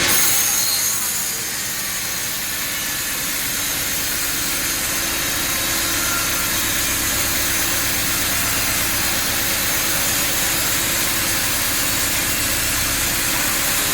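Sawmill saw and its motor running steadily: a constant hum under a hissing, sawing noise. It dips a little about a second in, then slowly builds back up and holds.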